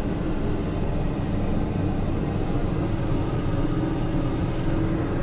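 Toilet tank refilling through a newly fitted fill valve: a steady rush of incoming water with a faint hum from the valve.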